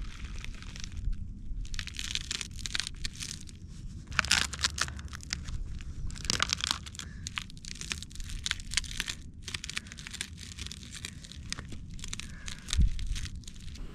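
Crinkling and crunching handling sounds in irregular bursts, like paper or packaging being worked, with a dull thump near the end.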